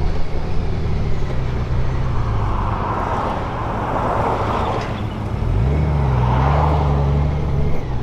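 Motorcycle engine running on the move, with road and wind noise. A little over five seconds in, the engine note rises and then holds steady.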